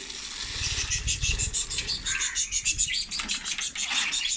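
A flock of caged budgerigars chattering, a dense run of quick, high chirps and warbles. A brief low rumble sounds under them in the first second or so.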